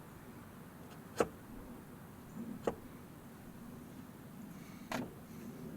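Three sharp knocks, about a second, two and a half seconds and five seconds in, over a faint steady low hum.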